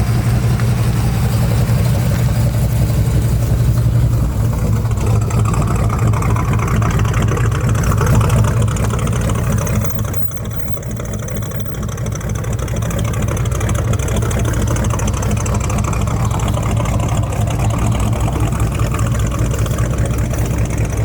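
A vehicle engine idling close by, a steady low running sound with a brief drop in level about ten seconds in.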